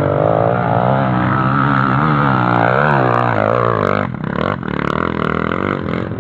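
Off-road trail motorcycle engine running under changing throttle, its pitch rising and falling, with a brief drop about four seconds in.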